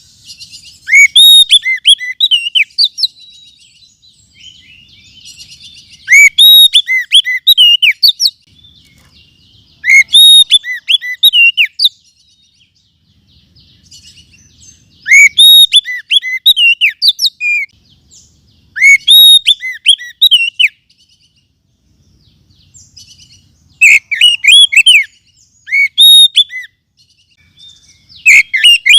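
Oriental magpie-robin (kacer) song: loud phrases of quick, sweet whistled notes swooping up and down, about seven phrases roughly four seconds apart, with softer twittering in some of the gaps.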